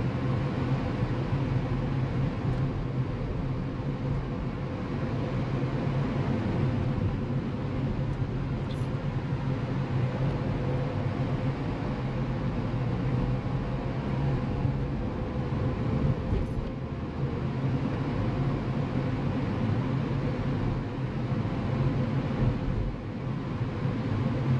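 A car driving along a road: steady engine and tyre noise with a low hum, and a couple of faint ticks.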